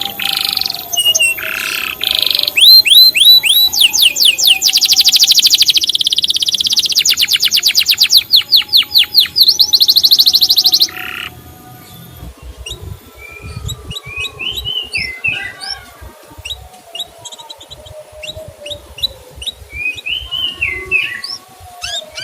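Canary singing: rapid runs of short, falling 'cuit' chirps and fast trills, loud for about the first eleven seconds. It then drops to quieter, scattered chirps and short warbled phrases.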